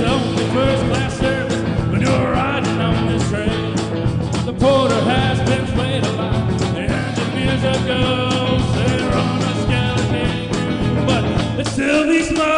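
A rock-and-roll band playing with a steady beat and bass. Near the end the bass and drums drop out, leaving a held chord.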